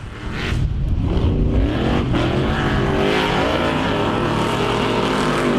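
Monster truck engine revving up and down, its pitch rising and falling repeatedly from about two seconds in.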